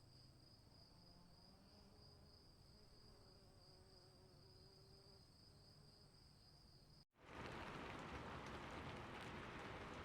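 Crickets trilling steadily in one continuous high note. About seven seconds in it cuts out abruptly and steady rain takes over, louder than the crickets.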